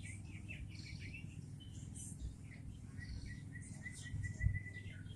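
Birds chirping with many short, high notes scattered throughout. In the second half a steady run of about five high ticks a second joins in. A dull low thump near the end is the loudest sound.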